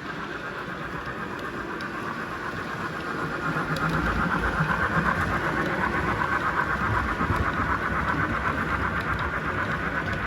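Model train running along the layout track, a steady whirring of motor and wheels on rail that grows louder about three and a half seconds in as it comes closer.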